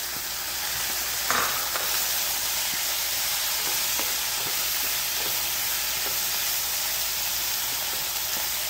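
Banana stem and moong dal stir-fry sizzling in a kadai while being stirred with a wooden spatula: a steady sizzle with scattered light knocks and scrapes of the spatula against the pan, the sharpest about a second and a half in.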